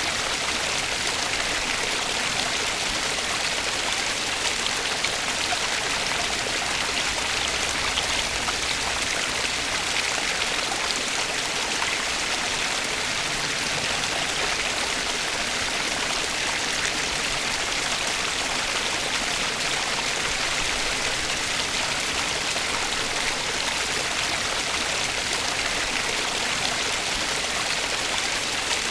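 Running stream water flowing steadily in an even, unbroken rush.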